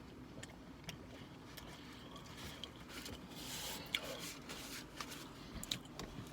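Quiet mouth sounds of chewing a burger, with small clicks and a soft rustle of the food being handled about three and a half seconds in.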